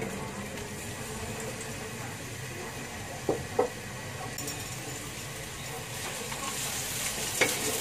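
Sliced onions, chillies, garlic and ginger sizzling in hot oil in a wok, with two short knocks a little past three seconds in. The sizzle grows louder near the end as a wooden spatula starts stirring.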